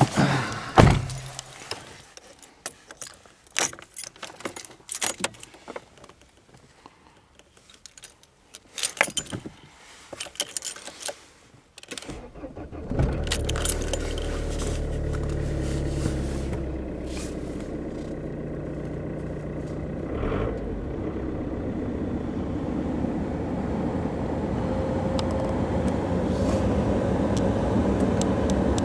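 Keys jangling and scattered clicks and knocks in the car, then the Opel Vectra's 2.2-litre, 151 bhp engine is cold-started about twelve seconds in. It catches at once and idles steadily; the idle settles a little lower a few seconds after starting.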